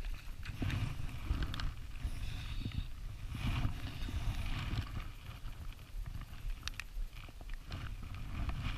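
Wind rumbling on the microphone, with scattered small clicks and brief patches of hiss.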